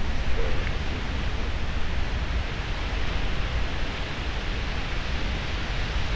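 Steady wash of ocean surf and wind, with wind rumbling on the microphone.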